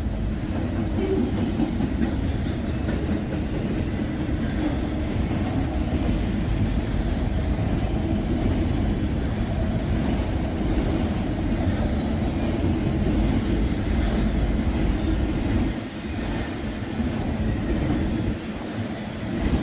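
Freight train of tank cars rolling past close by, steel wheels clattering steadily over the rails, with a couple of brief lulls near the end.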